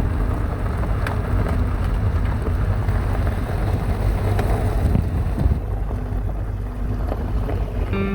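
A vehicle driving over a rough road of crushed lava rock: a steady low rumble of tyres and engine, with wind noise on the microphone.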